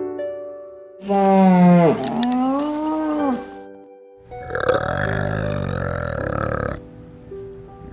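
An animal's drawn-out call that rises and then falls in pitch, and then, after a short pause, a rough, low grunting call lasting a couple of seconds, over steady background music.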